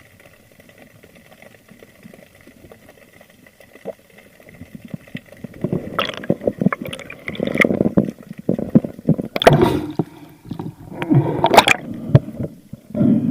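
Water gurgling and sloshing around a spearfisher's camera. It is faint at first, then comes in loud, irregular splashy surges from about halfway in.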